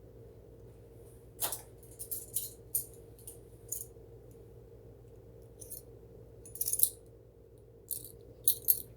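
Small metal kitchen utensils clinking and rattling: a string of short, sharp clicks in several separate clusters.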